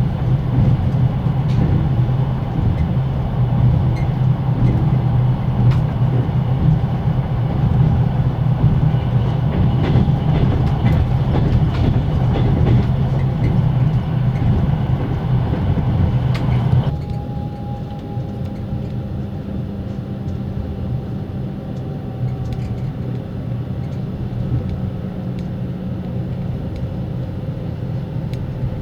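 Passenger sleeping car heard from inside a closed compartment at speed: the carriage's axle-driven generator drones under the floor while the wheels knock over the rail joints. About two-thirds of the way through, the sound cuts abruptly to a quieter, steadier run with a thin generator whine that slowly sinks in pitch.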